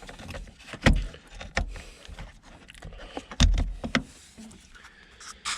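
Plastic car interior trim being flicked up and pried loose by hand: a handful of sharp clicks and knocks, the loudest about a second in and about three and a half seconds in.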